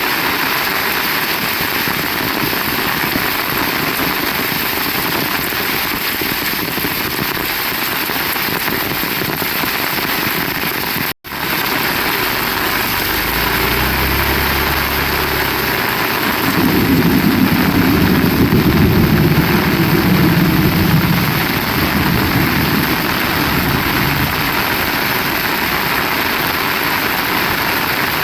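Heavy rain falling steadily in a dense, even hiss. About eleven seconds in, the sound cuts out for an instant. Soon after, a low engine rumble comes in under the rain, swells for several seconds and fades.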